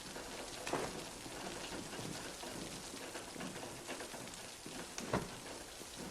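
Steady rain falling, with two louder drips or splashes standing out, about a second in and near the five-second mark.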